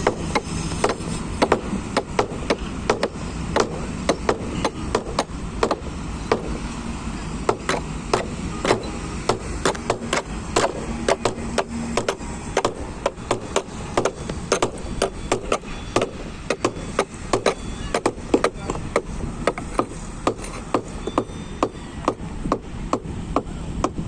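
Oil tank train rolling past, its wagon wheels clacking over the rail joints in a long run of sharp knocks, about three a second, over a steady low rumble.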